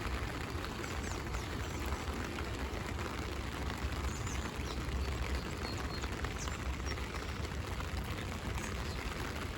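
Steady rain pattering on an umbrella overhead: a dense, even patter of drops with a steady low rumble underneath.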